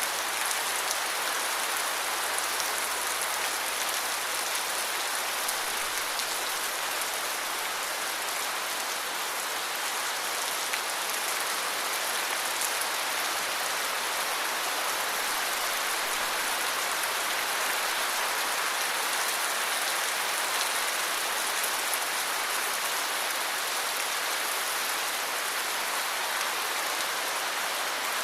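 Steady rain falling and pattering on surfaces, an even hiss with small scattered drop ticks.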